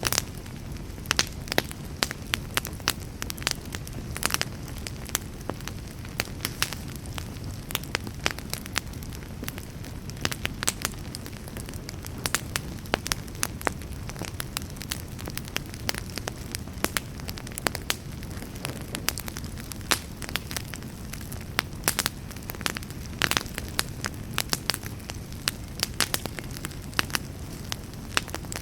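Wood fire burning with a steady low rush and frequent sharp, irregular crackles and pops.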